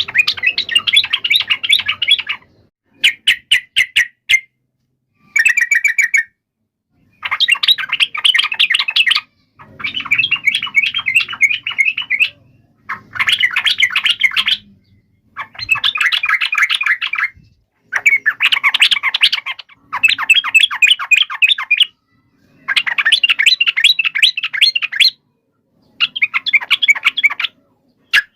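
Yellow-vented bulbul (trucuk) giving rapid chattering fighting calls, a string of about eleven bursts of a second or two each with short silences between.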